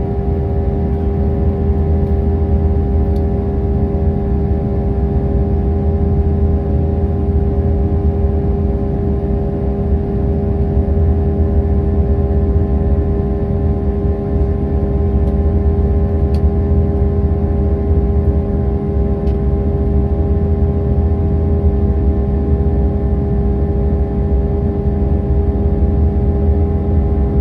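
Airbus A319 cabin noise at a window seat: a steady jet engine and airflow drone with a constant hum over a deep rumble, unchanging throughout.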